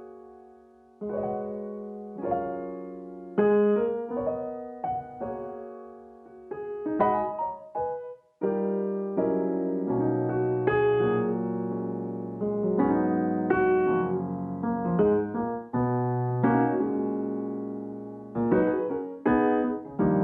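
Solo piano music: a slow, gentle melody of single struck notes and chords that ring and fade, fuller with sustained low chords after a brief pause about eight seconds in.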